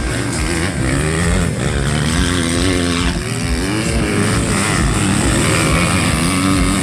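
Several motocross bikes racing, their engines revving up and falling back repeatedly as the riders work the throttle through the track.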